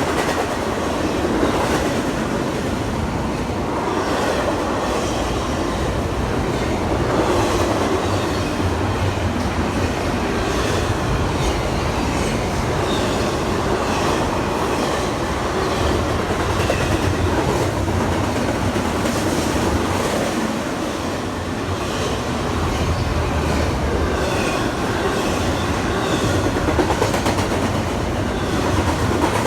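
Train rolling past on the tracks: a steady rumble of railcars, with wheels clicking over the rail joints at a regular rhythm.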